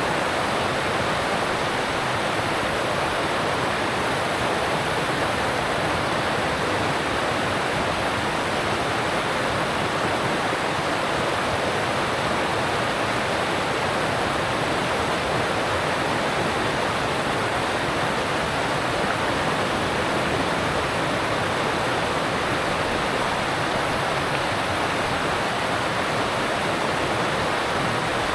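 Alpine mountain stream rushing over rocks: a steady, unbroken wash of water.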